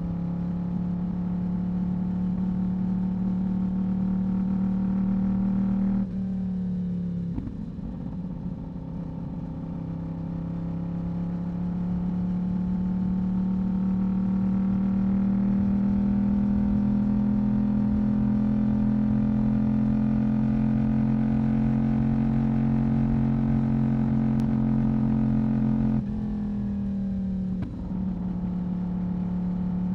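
Yamaha YZF-R1 inline-four sportbike engine and exhaust under way, a steady note that slowly climbs with the revs. Twice, about six seconds in and again near the end, the note briefly drops away and falls in pitch, then picks up at lower revs and climbs again, as with a gear change.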